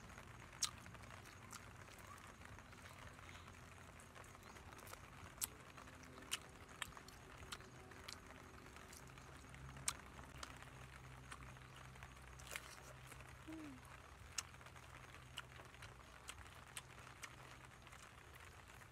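A person eating grilled pig leg: scattered sharp mouth smacks and crunches of chewing at irregular intervals, faint over a low hum.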